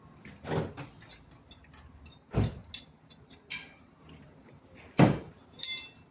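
Irregular knocks and clicks of tools and metal parts being handled during car repair work. There are heavier thumps about two and a half and five seconds in, and a short ringing metal clink just after the second.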